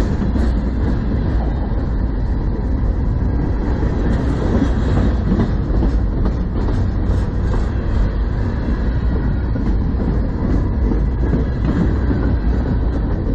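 A freight train of empty centerbeam flatcars rolling past at close range. Its steel wheels give a steady heavy rumble on the rails, with scattered clicks and rattles.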